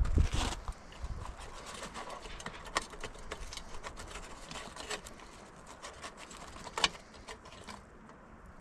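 Irregular sharp clicks and knocks, with a louder knock at the start and another near the end.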